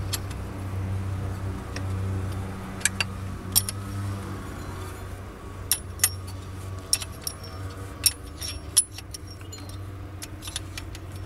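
Metal hand tools clinking and clicking against engine parts while a new accessory-belt tensioner is fitted: a dozen or so short, sharp clinks at uneven intervals over a steady low hum.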